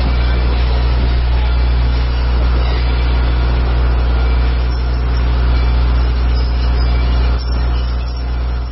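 Steam-hauled passenger train running along the track, heard from an open carriage window: a steady, loud rumble with wind buffeting the microphone. It dips briefly near the end.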